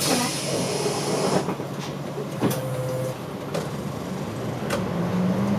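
Route bus running on the road, heard from on board: a steady engine drone with road noise, a hiss in about the first second and a half, and a couple of sharp clicks.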